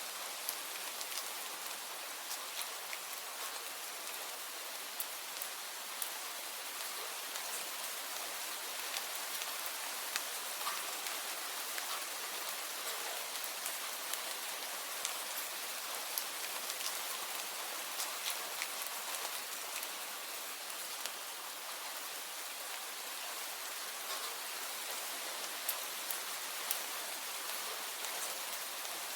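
Steady rain falling: an even hiss with individual drops ticking sharply through it.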